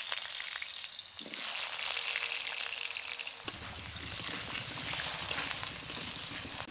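Potatoes frying in hot mustard oil in a kadai: a steady sizzle with scattered crackles.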